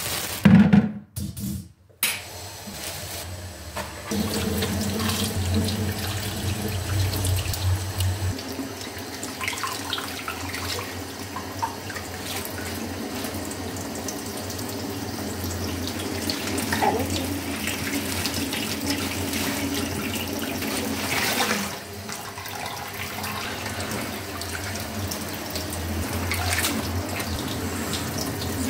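Water running steadily from a tap into a sink, after a loud clatter in the first second or two.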